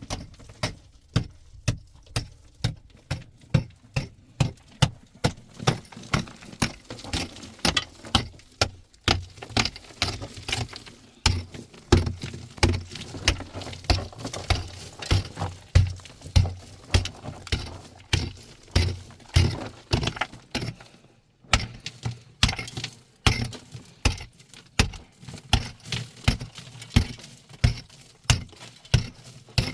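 Sharp knocks repeated at a steady pace of about two a second, like striking or pounding, with a brief pause about twenty-one seconds in.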